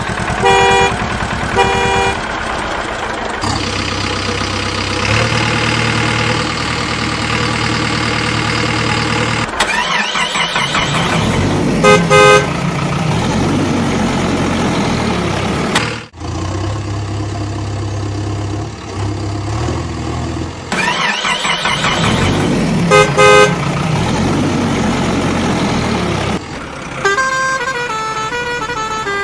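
Vehicle sounds: short horn toots several times, a steady engine hum, and twice a warbling tone sweeping up and down just before a pair of toots; near the end a run of changing tones.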